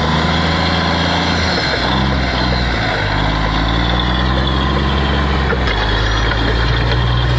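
Excavator's diesel engine running loud and steady, its pitch dipping and rising as the load changes, then shifting suddenly to a new steady note near the end.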